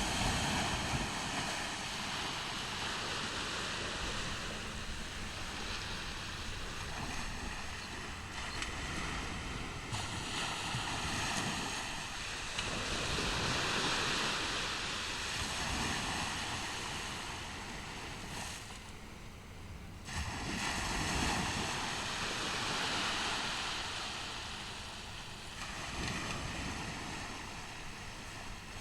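Ocean surf breaking and washing onto a beach, a broad hiss that swells and falls back in slow surges. Under it runs a low, fluttering rumble of wind on the microphone.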